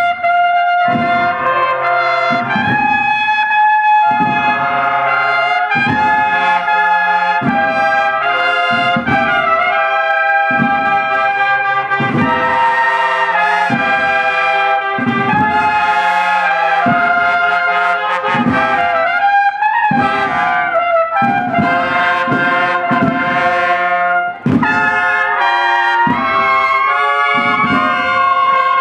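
Brass band playing a slow march, with trumpets and trombones carrying the tune over a steady drumbeat.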